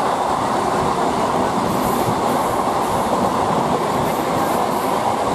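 Two trains running side by side at speed: a steady rushing rumble of wheels on rail and wind, with a faint rhythmic clatter from the rails, heard from the open doorway of one train as the coaches of the other run close alongside.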